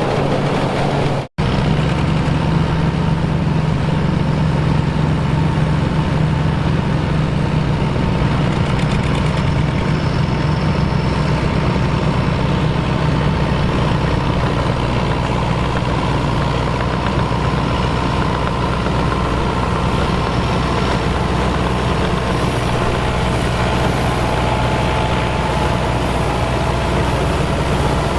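Engine of a vintage farm machine running steadily at constant speed, with a brief cut to silence just over a second in.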